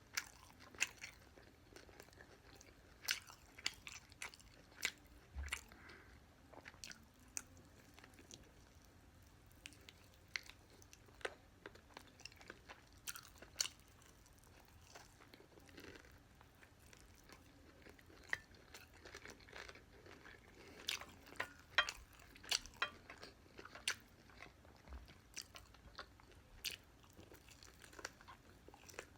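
Close-up chewing and biting of crispy fried chicken: crunching crackles come irregularly, in clusters separated by quieter stretches of chewing.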